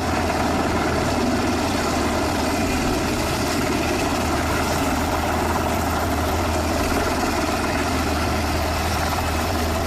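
Engine running with a steady, even drone and a strong low hum, holding the same level throughout.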